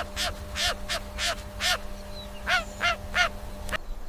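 A series of about nine short, harsh animal calls, two to three a second, over a steady low hum; they stop abruptly near the end.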